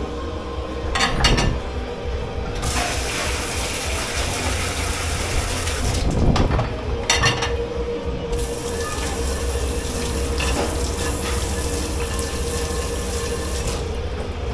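Water running hard into a dish-pit sink in two long bursts, with clatters of crockery and utensils being handled in between.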